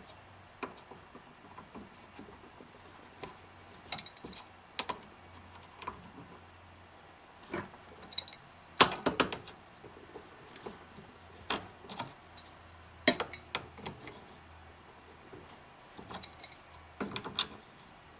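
Irregular clicks, clinks and light knocks of small tools and parts being handled while working a PVC part, over a low steady hum.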